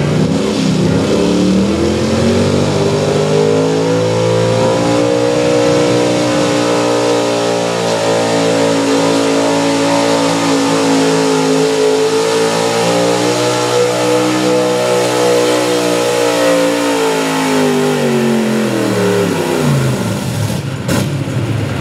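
Pulling truck's engine held at high revs under load through a truck pull. It climbs in pitch over the first few seconds, stays high and steady, then drops away over the last few seconds.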